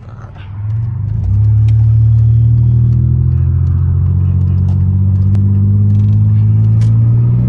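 Muffler-deleted 2002 Pontiac Grand Prix GT's 3.8-litre V6 accelerating under load: the exhaust swells up about a second in, then a loud, deep drone whose pitch climbs slowly as the revs rise.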